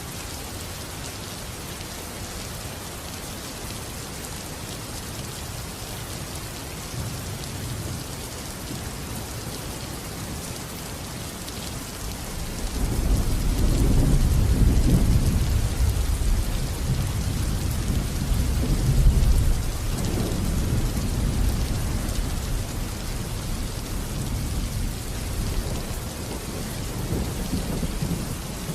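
Steady rain falling, with a long, deep roll of thunder that builds up about halfway through, swells twice and keeps rumbling under the rain.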